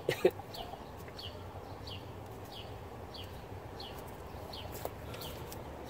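A bird repeating a short, falling chirp about every two-thirds of a second, over a steady low background hum.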